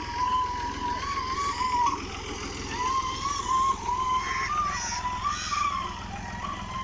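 Fiat 480 tractor's diesel engine running steadily, with a wavering, ornamented melody line laid over it.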